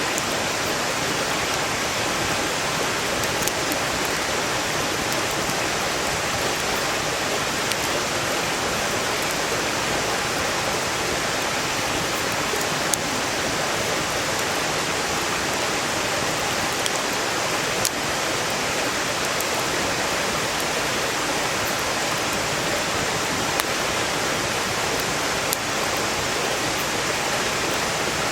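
A valley stream rushing steadily, with a few sharp pops and crackles from burning firewood scattered through it.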